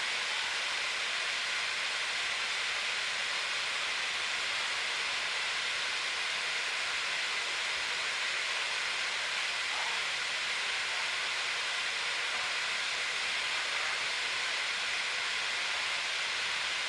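Microwave oven running: a steady, even hiss from its fan while it heats.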